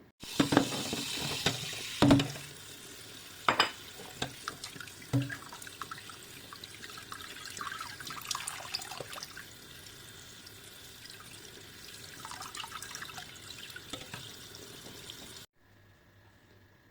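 Water running from a tap into a sink, with several sharp knocks and smaller clatter as things are handled in the water. The running water cuts off abruptly near the end.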